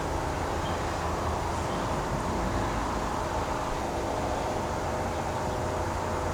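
Steady mechanical hum with several held, unchanging tones over a low rumble.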